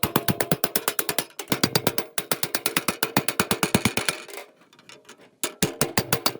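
Rapid, evenly spaced clicking, about eight to ten clicks a second, broken by short breaks and a pause of about a second near the end.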